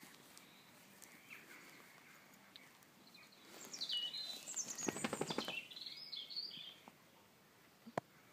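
Songbird chirping and warbling outdoors, from about three and a half to seven seconds in, over faint background noise, with a short burst of close rustling about five seconds in and a single sharp click near the end.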